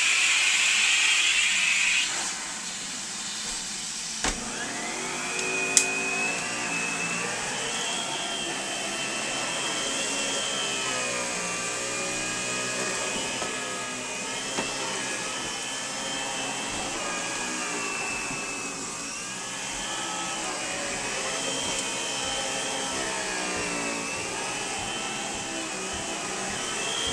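Central vacuum system running: a loud hiss of rushing air that drops away about two seconds in, a click, then a steady motor hum that slowly wavers up and down in pitch.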